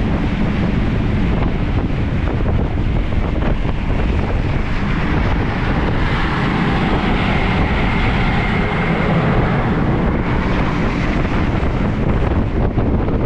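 Wind buffeting the microphone on a ferry at sea, over the steady rush of the sea and a low rumble from the ship. A brighter hiss swells for a few seconds in the middle.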